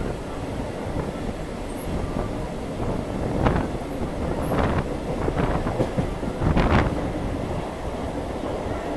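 Mumbai suburban electric local train running along the track, heard from its open doorway: a steady rumble of wheels on rail, with a few sharper clacks about halfway through and later.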